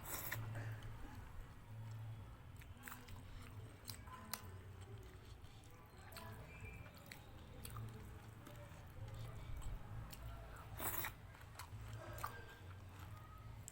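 A person chewing and biting food close to the microphone: wet mouth sounds with scattered crunches and clicks, over a low hum.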